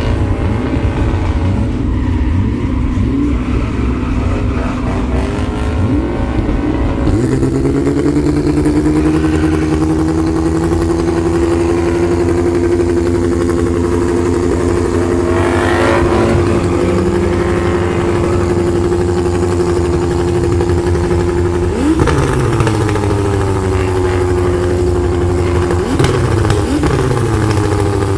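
Lexus V8 drift car engine running hard: the revs climb about seven seconds in and hold steady at a high pitch for around fifteen seconds. Then they fall away, and the engine is revved up again near the end.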